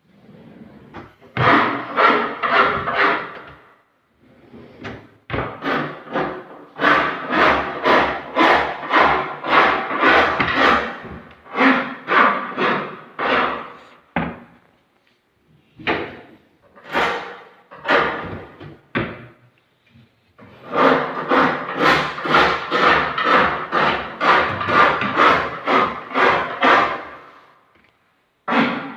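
Hand tool working wood in rhythmic strokes, about three a second, in runs of a few seconds broken by short pauses.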